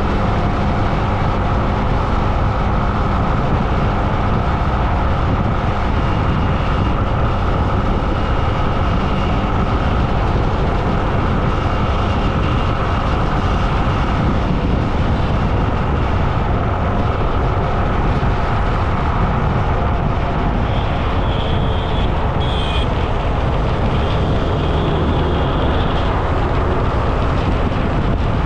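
Steady, loud road noise heard from a moving rider's camera: traffic and rushing air with most of the energy low down. A faint high tone comes and goes in the middle and again in the last third.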